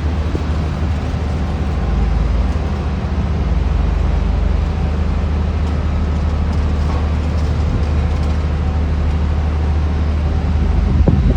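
Steady low engine rumble, typical of heavy demolition machinery or a crane running at a work site, with a brief louder knock near the end.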